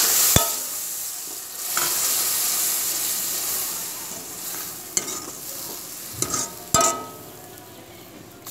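Fried onion-tomato masala in a metal kadhai sizzling hard as water hits the hot oil. The sizzle flares again about two seconds in, then fades as the water cools the pan, while a steel ladle stirs and knocks against the pan a few times.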